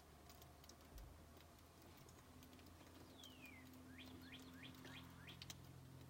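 Near silence with faint scattered ticks and a low hum, broken about three seconds in by a faint bird call: one falling whistled note, then five quick rising chirps.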